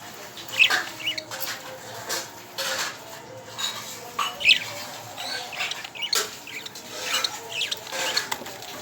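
Pet budgerigars chirping and chattering: a run of short, sharp high calls at uneven intervals, several seconds of back-and-forth.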